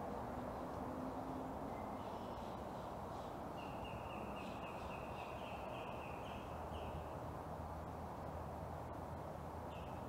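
A bird calling a quick run of short high notes, about four a second, from about three and a half to seven seconds in, with a lone note near the start and another near the end, over steady outdoor background noise.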